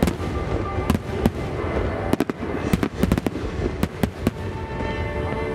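Aerial firework shells bursting in quick, irregular succession, with many sharp bangs that thin out after about four seconds. Near the end, the display's accompanying music comes up with held tones.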